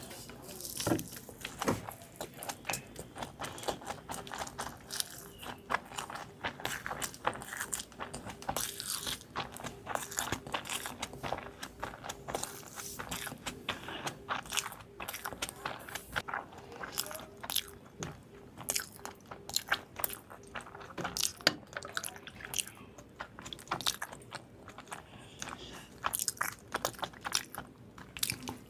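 Close-miked eating: crunching bites and chewing of food, with many crisp crunches in quick, irregular succession.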